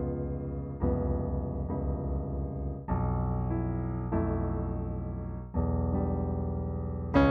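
Background piano music: slow chords struck about every second or so, each held and fading before the next.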